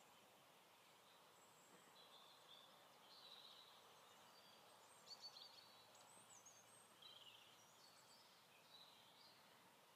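Near silence: faint outdoor hiss with scattered short, high bird chirps and calls.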